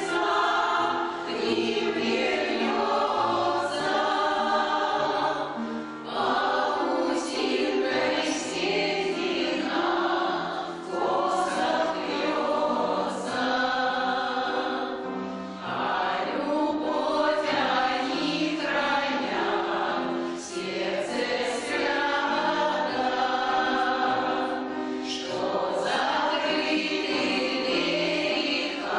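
A veterans' choir singing a song in phrases of about five seconds, with short dips in loudness between them.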